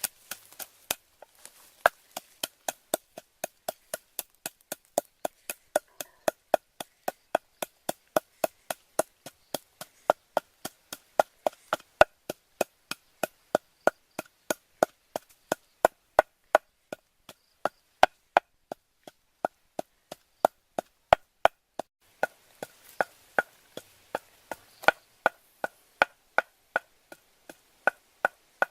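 Steady chopping with a blade striking wood, about three even strikes a second.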